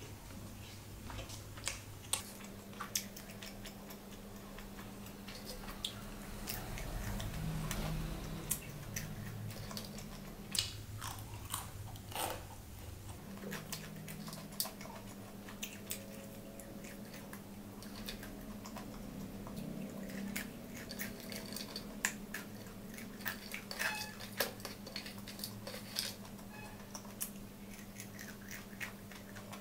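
Close-up eating of crispy fried chicken and chicken biryani: chewing and biting, with many short wet mouth clicks and crunches scattered throughout. A steady low hum runs underneath.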